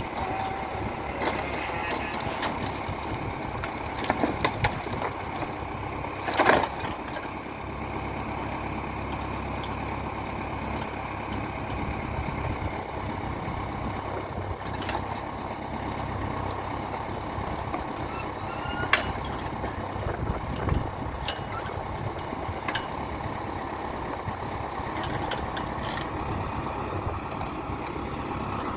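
Valmet 705 tractor's diesel engine running steadily, with several sharp knocks and clunks as boards are handled during loading; the loudest clunk comes about six seconds in.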